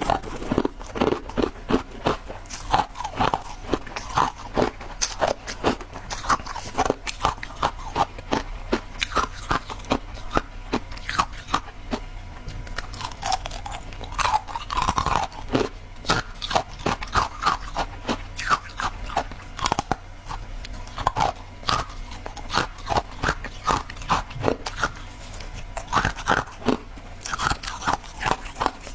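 Shaved ice being bitten and chewed close to the microphone: rapid crunching, many sharp crunches a second, with no let-up.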